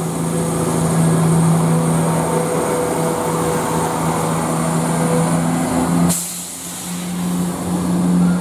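Two coupled Class 168 diesel multiple units pulling out of the station, their underfloor diesel engines making a loud, steady drone under load as the train accelerates away. A sharp click and a brief dip in the sound come about six seconds in, after which the drone carries on.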